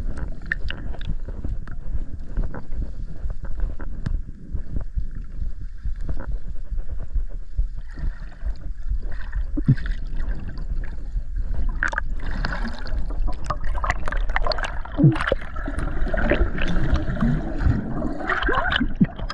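Underwater swimming sounds heard through a GoPro's waterproof housing: water sloshing and bubbles gurgling over a steady low rumble, with many small clicks. The bubbling gets busier about two-thirds of the way in.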